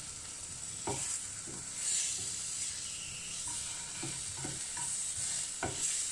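Halloumi cheese sizzling as it pan-fries in a frying pan, with a few scrapes and knocks of a plastic slotted spatula as the slices are pushed and turned.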